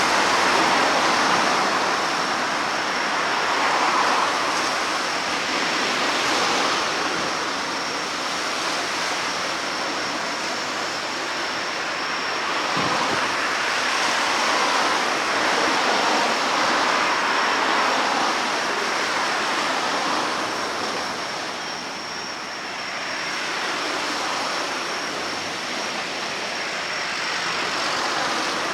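Steady rushing noise that swells and fades every few seconds, with a thin, steady high-pitched tone running through it.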